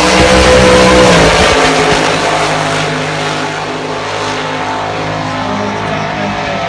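Ford Mustang engine held at high revs, loudest in the first second and a half, then easing slightly and running steady.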